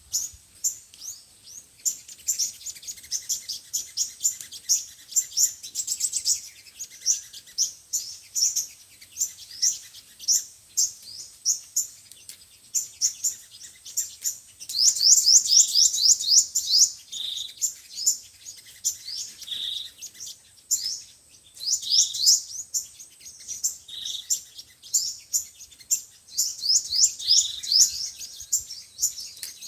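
Sunbirds singing: rapid series of high, thin, downslurred chirps and twittering trills in quick bursts. The fastest, loudest run of notes comes about halfway through.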